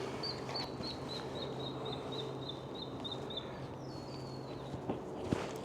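A bird calling a quick run of short, high, slightly falling notes, about three a second for some three seconds, over a steady low hum; a sharp knock near the end.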